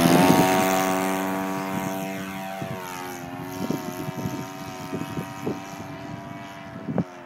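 Engine of a radio-controlled Extra aerobatic model plane at full throttle on takeoff: a steady buzzing note that fades as the plane climbs away. Short knocks of wind on the microphone in the second half.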